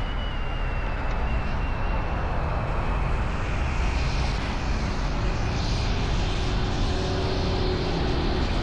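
Road traffic after a fireworks show: a steady low rumble and hiss of vehicles, with no single event standing out.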